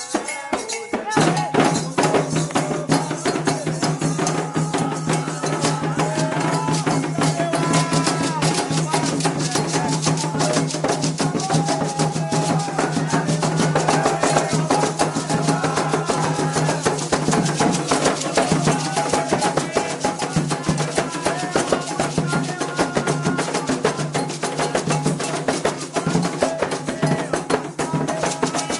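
Candomblé ritual music: hand drums beating a fast, dense rhythm with a metal bell and a rattle, under group singing. The full ensemble comes in about a second in.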